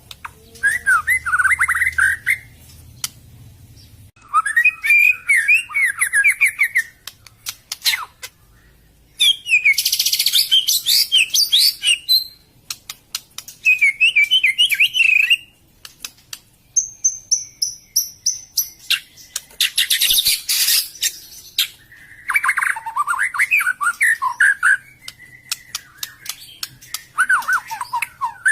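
White-rumped shama singing in separate bursts of quick, varied warbled whistles a few seconds apart, mixed with harsh rasping calls and a short run of high, thin repeated notes near the middle.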